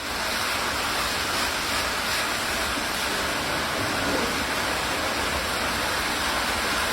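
Steady, even rushing noise with no distinct events, of the kind made by falling water, rain or wind.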